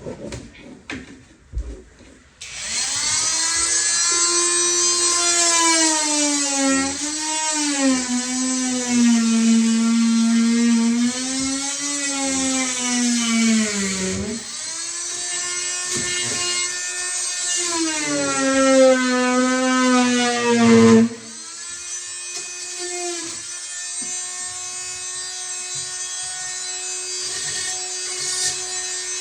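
Power saw cutting down a plastic drain pipe to sit flush with a plywood floor, its high buzzing pitch sagging and recovering as the blade bites. About two-thirds through it drops to a quieter, steadier running.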